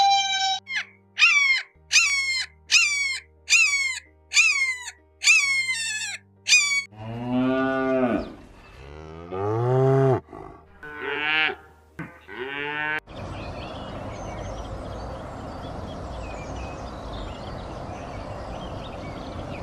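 A cow mooing: two long, low calls, followed by shorter calls. Before them comes a quick run of about eight high-pitched calls, each sliding downward, and after them a steady noisy rustle.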